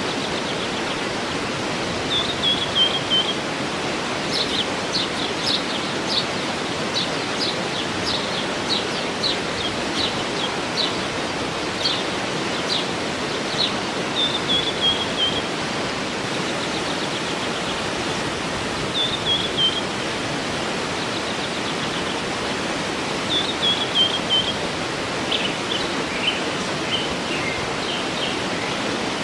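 Steady rush of a waterfall, with birds singing over it: short falling trilled phrases every few seconds and a run of quick, high chirps.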